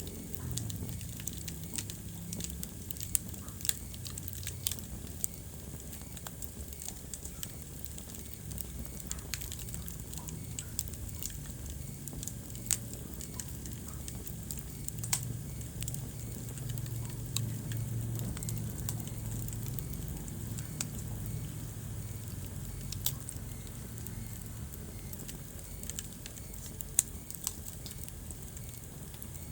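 Wood fire burning in a fireplace, crackling with irregular sharp pops over a low steady rumble of the flames; a few pops stand out louder, near the start, about halfway and near the end.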